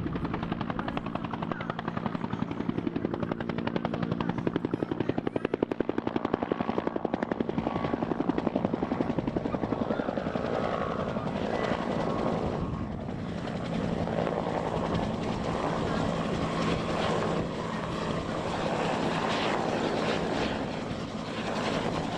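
Helicopter flying close by: a rapid, even rotor-blade beat over the steady hum of its turbine and gearbox, the beat strongest in the first half and giving way to a rougher wash of noise later.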